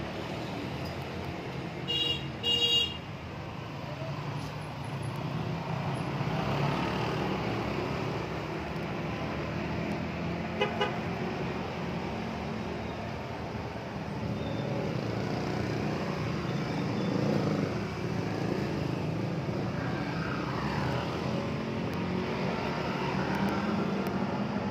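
Steady road traffic rumble with a vehicle horn giving two short toots about two seconds in, and a fainter short beep about halfway through.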